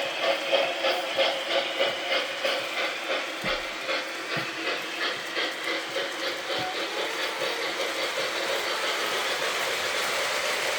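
Model train running on its track with a regular rhythmic beat of about two to three a second, which fades about eight seconds in into a steady running noise.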